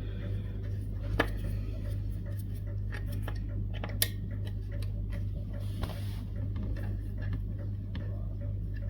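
Scattered small, sharp clicks and light metallic ticks of hand tools working at a bass guitar's bridge while string height is set, over a steady low hum.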